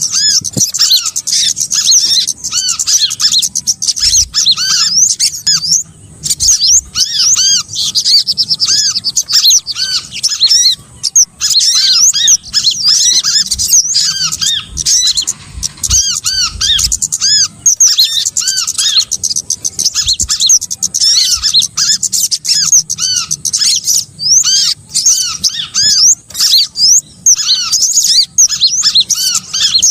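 Small-bird lure recording: many small birds chirping and twittering at once in a dense, unbroken chorus of rapid high notes, with short arched call notes repeated throughout.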